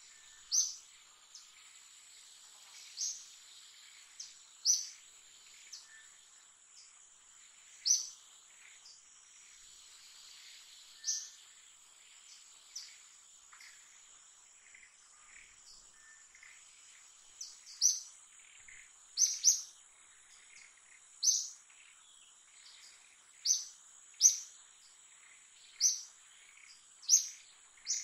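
A bird gives short, high chirps every one to three seconds, more often in the second half, over the steady high-pitched drone of insects.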